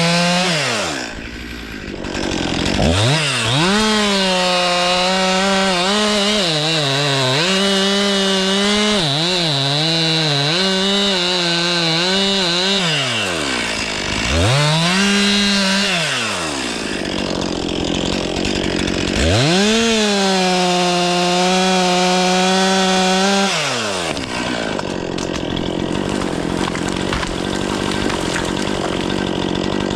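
Stihl MS 500i two-stroke chainsaw run at full throttle and cutting wood, its pitch wavering as the chain bogs in the cut. The throttle is released and squeezed again three times, then let off for the last several seconds.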